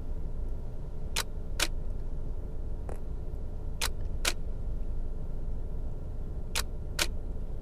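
Nikon DSLR shutter firing three long exposures, each a pair of crisp clicks about half a second apart as the shutter opens and closes, repeated roughly every two and a half seconds, over a steady low rumble inside the car.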